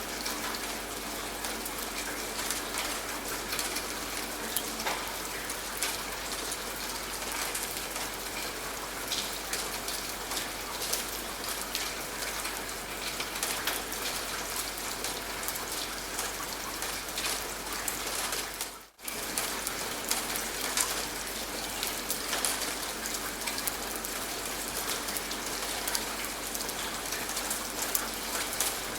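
Steady rain, with many individual drops pattering on a surface. The sound dips out for a moment about two-thirds of the way through and comes straight back.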